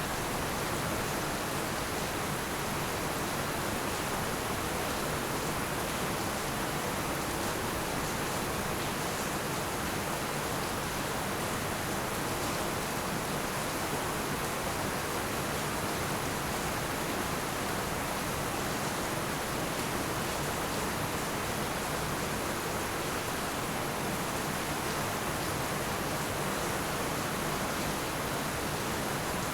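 Heavy rain pouring steadily on roofs and ground: a dense, even hiss with no breaks and no thunder.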